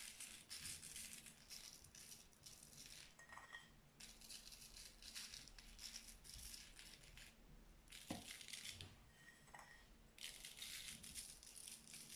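Salt sprinkled by hand onto paper: a faint rattling hiss of grains landing, in three stretches with short pauses between.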